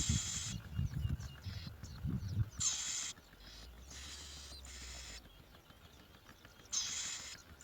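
Bar-winged prinia nestlings begging, about four short bursts of high, raspy calls, with low bumps during the first couple of seconds.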